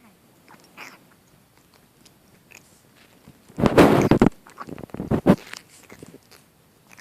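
Wet Persian kitten snorting through its nose, pig-like: one loud, noisy snort about three and a half seconds in, followed by a few shorter snorts.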